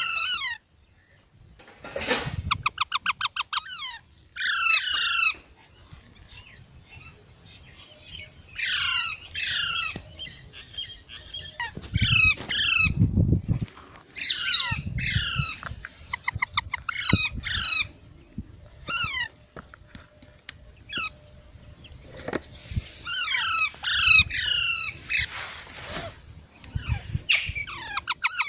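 Baby parrots squawking: bouts of short, harsh, downward-sliding calls, several in quick succession, with pauses between bouts, and a fast rattling chatter about two seconds in.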